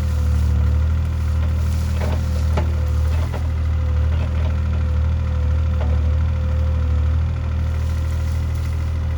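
Engine idling steadily, a deep even hum with a thin steady whine over it and a few light clicks in the middle.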